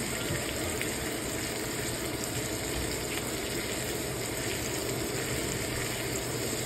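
Onions, garlic and ground pork sizzling steadily in a hot frying pan.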